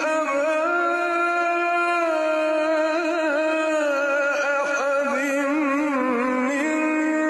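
A voice singing a slow, ornamented melody in long held notes that waver and bend, with no pauses.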